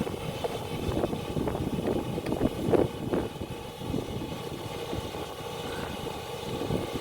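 Knocks and clatter of parts being handled, busiest and loudest between about one and three and a half seconds in, over a steady mechanical hum.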